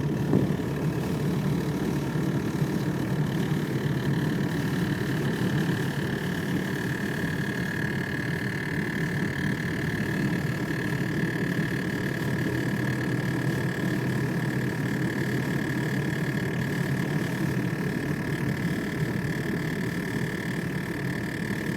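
Steady rumble of a car driving, heard inside the cabin, with a steady high whine from the heater's blower motor that grows louder about six seconds in. The blower motor is making an abnormal noise.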